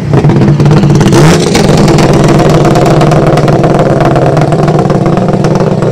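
Rally car engine revving close by: its pitch rises and falls in the first second and a half, then holds steady at high revs, with a fast rattle over it.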